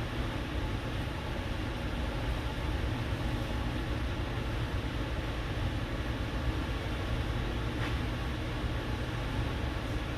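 Steady low rumble with a hiss, with no distinct events apart from one faint tick about eight seconds in.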